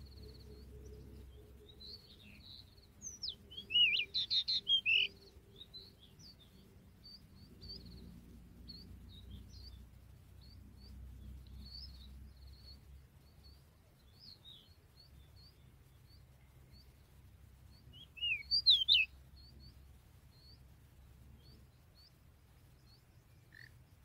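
Magpie-robin singing: a loud burst of varied, quickly gliding song phrases a few seconds in and another about 18 seconds in, with short high chirps scattered between.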